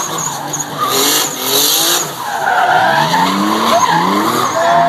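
Twin-turbo Nissan 350Z's V6 revving hard while drifting, its pitch climbing and dropping several times, over tyres skidding and squealing.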